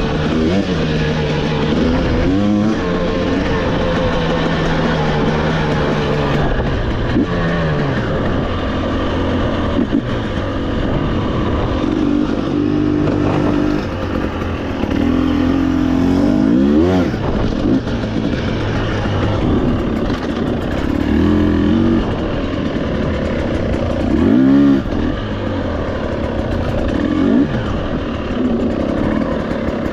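Dirt-bike engine running hard on a trail, its revs rising and falling again and again with throttle and gear changes.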